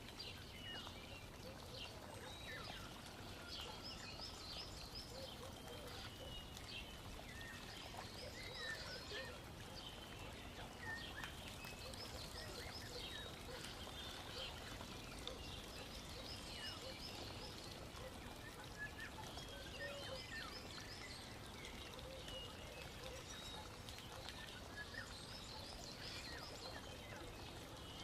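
Faint birdsong: a short chirping phrase repeated every two or three seconds, with other scattered chirps, over a low steady background noise.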